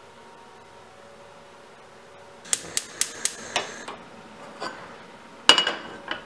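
Hard objects knocking and clicking: a quick run of about five sharp taps, then a louder clink with a short ring near the end, followed by one more tap.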